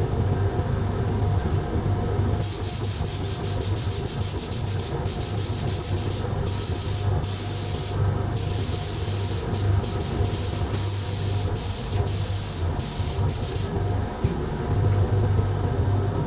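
Sandblasting gun hissing with a steady blast of air and grit, cutting out briefly a few times, over a steady low hum.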